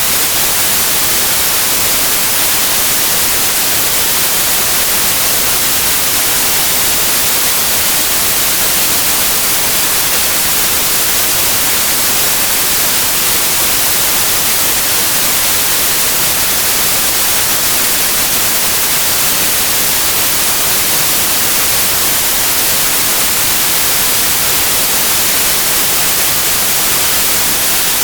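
Continuous synthetic white noise: a steady, even hiss with no change, melody or rhythm, played as a sleep sound for babies.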